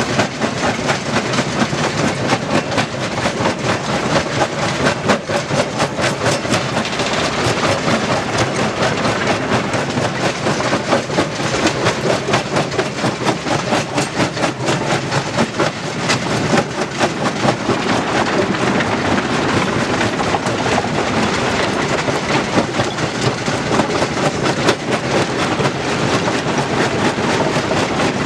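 Stone crushing machinery running, with stones clattering through it in a dense, continuous rattle of rapid impacts.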